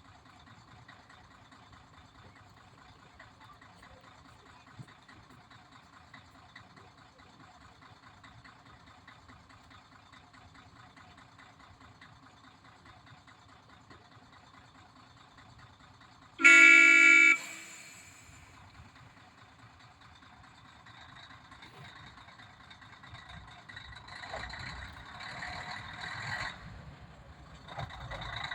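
Former Nanbu Jukan Railway KiHa 102 railbus's diesel engine idling quietly, then one loud horn blast of about a second midway, sounded as a departure signal. Afterwards the engine grows louder as it works harder.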